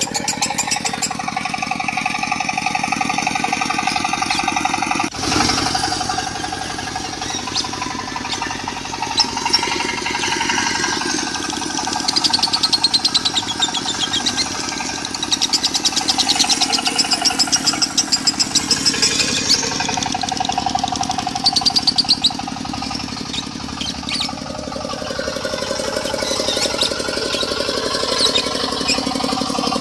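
A lovebird chattering in long, rapid trills, the 'konslet' song style, laid over a diesel engine running with a fast, even knock. The mix changes abruptly about five seconds in.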